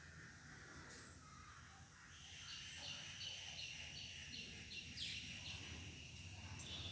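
Faint outdoor ambience with a bird calling. In the middle it gives a run of short, repeated high notes, about three a second.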